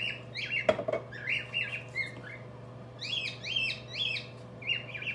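A bird squawking and chirping in rapid, repeated short calls, with a single knock about a second in, over a steady low hum.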